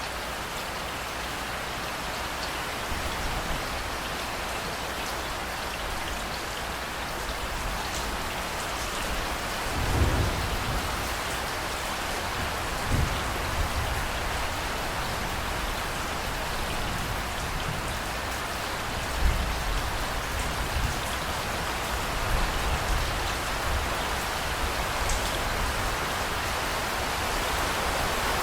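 Steady heavy rain, with low rolls of thunder rumbling up several times, loudest about a third of the way through and again about two-thirds through.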